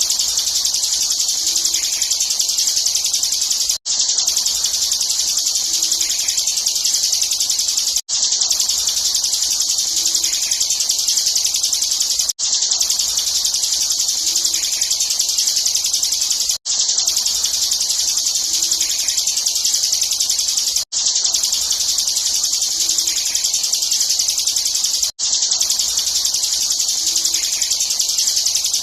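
Bar-winged prinia (ciblek) singing an unbroken, very fast high trill in 'ngebren' style. It is a short recording looped, so it breaks off for a split second about every four seconds.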